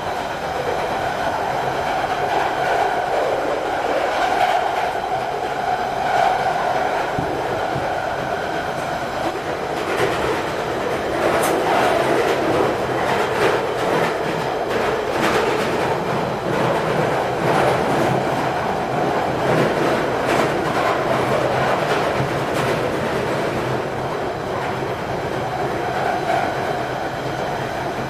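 London Underground 1992 Stock Central Line train running at speed, heard from inside the carriage: a steady rumble and rush of wheel and tunnel noise with frequent clicks from the rail joints. A faint whine sits over it in the first several seconds and again near the end.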